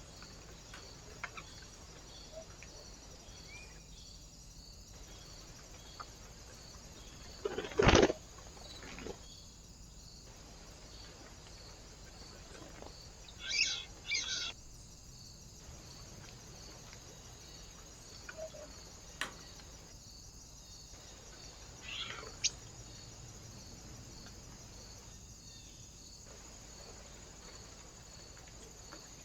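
Small birds at a feeder give a few short high chirps, the clearest in a pair about a third of the way through. About eight seconds in there is one loud brief knock or scuffle. Under it all runs a faint steady hiss with a faint regular ticking.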